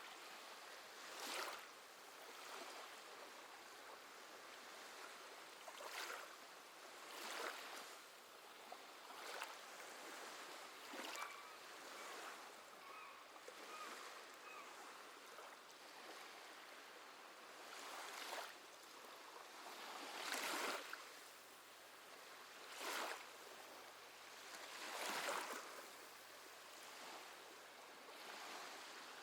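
Gentle sea waves washing onto the shore, each wave swelling and fading every few seconds over a soft steady hiss, with a few faint seabird calls near the middle.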